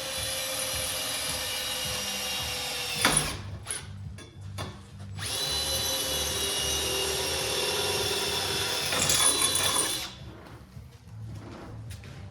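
Power drill running in two long spells, about three and five seconds, with a short pause between them.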